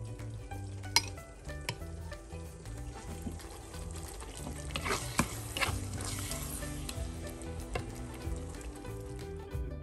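Fish paste and onions sizzling in a nonstick frying pan while a slotted spoon stirs and scrapes through it, the sizzle and scraping thickest midway, over background music. A sharp click comes about a second in.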